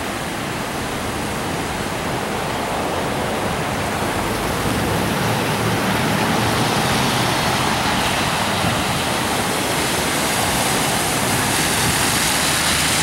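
Fast-flowing floodwater rushing in a steady, dense wash of noise, getting a little louder about four seconds in.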